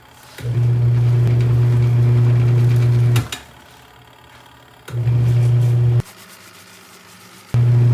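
Small washing machine's electric motor humming steadily in three bursts, about three seconds, one second and then a second and a half long, with a click where it cuts off and quiet rubbing between bursts.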